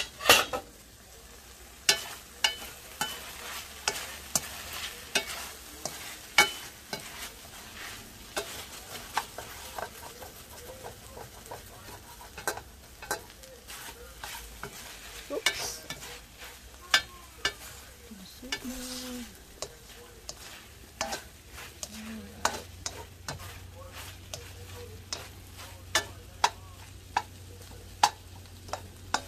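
Ground meat with onions and tomatoes sizzling in a stainless steel pan, stirred with a plastic slotted spoon that scrapes and clacks against the pan many times over.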